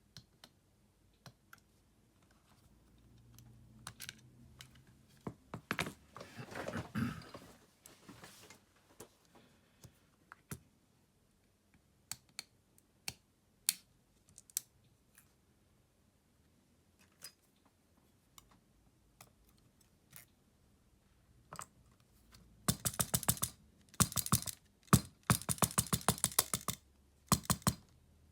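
Small tools and plastic phone parts clicking and tapping, with a scraping stretch about six seconds in and a run of fast, close-spaced clicking near the end.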